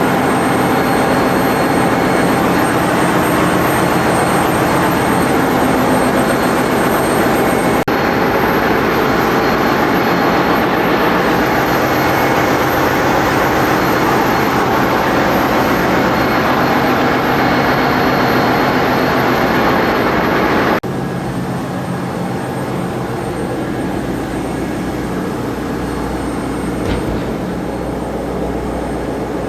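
Ship's engine-room machinery running with a loud, steady drone. It changes abruptly twice, about eight and about twenty-one seconds in, and is quieter after the second change.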